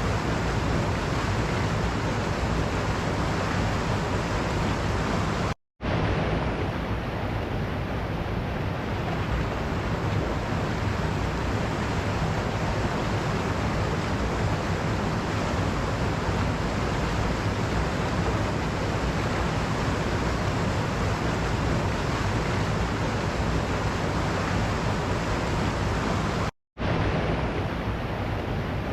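Waterfall: a steady, even rush of falling water. It cuts out to silence for a split second twice, about six seconds in and again near the end.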